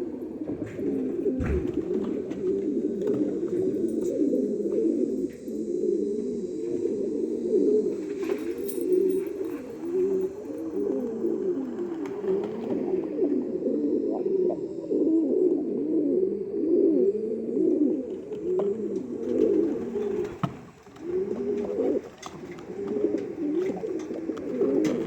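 Many racing pigeons cooing at once, a dense, continuous chorus of overlapping low, rolling coos. A single short knock sounds about a second and a half in.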